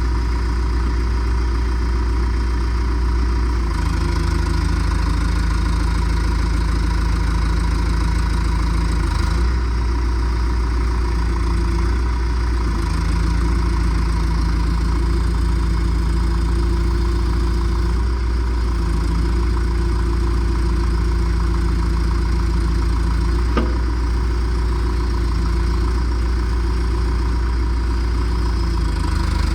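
John Deere 310SG loader backhoe's diesel engine idling steadily, with one brief click about three-quarters of the way through.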